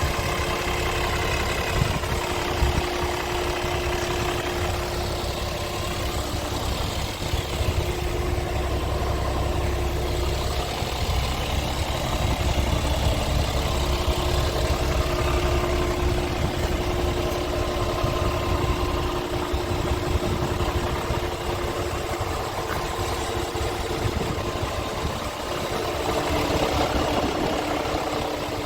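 Scania R tractor unit's diesel engine idling steadily, a low even rumble with a constant hum.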